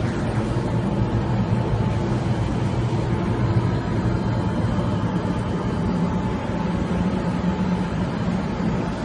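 Steady mechanical rumble with hiss, even in level throughout.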